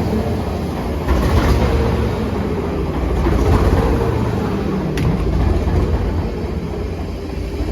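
Railway train running, a steady low rumble with a faint held tone over it and a single click about five seconds in.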